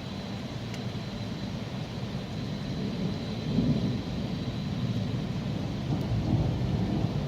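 Rolling thunder rumbling low, swelling about halfway through and again near the end, over steady rain.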